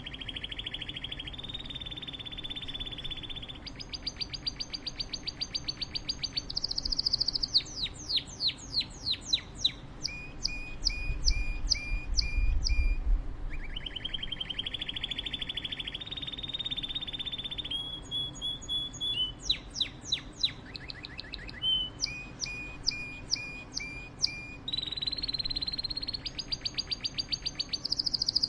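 A songbird singing a long song of rapid trills, each held at one pitch for a second or two and stepping between pitches, broken by runs of quick downward-sweeping notes. The whole sequence repeats about halfway through.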